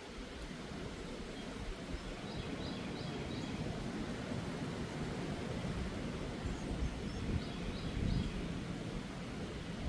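Wind gusting and rumbling across the microphone, with a small bird giving short series of three or four quick high chirps twice.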